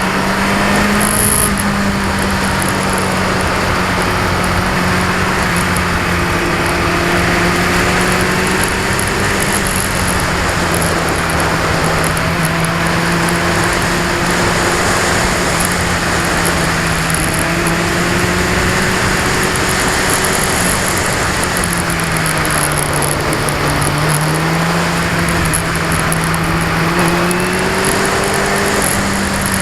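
2002 Yamaha R6's 600 cc inline-four running under way, its note holding steady and wavering with the throttle, dipping briefly about two-thirds of the way through and climbing back. A heavy noise haze lies over it, which the rider puts down to vibration on the action camera.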